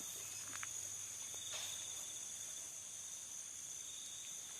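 Crickets and other night insects chirping steadily in several high pitches, with a few faint clicks.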